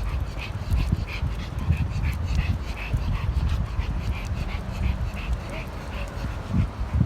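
A dog whimpering in short, high-pitched whines, a few a second, over a low rumble.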